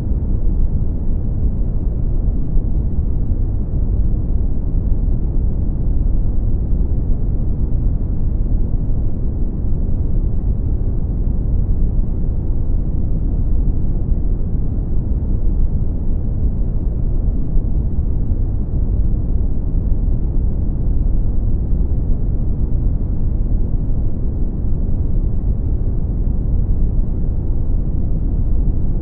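Brown noise: a steady, deep rushing noise, strongest in the bass and fading away toward the treble, with no changes.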